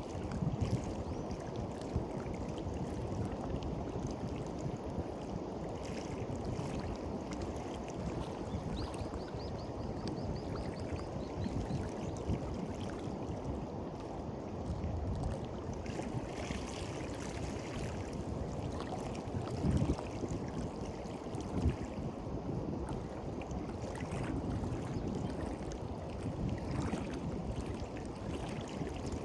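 Sea waves washing onto a beach, with the wash swelling and fading every few seconds over a steady low rumble of wind on the microphone.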